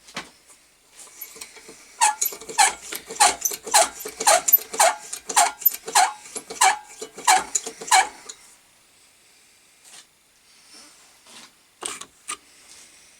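Tilley lamp's hand pump being worked to pressurise the paraffin tank, its one-way valve squeaking on each stroke: about a dozen quick squeaks, each falling in pitch, roughly two a second, then a couple more near the end.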